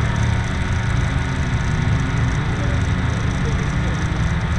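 Rally car's engine running steadily at low revs, heard from inside the cabin.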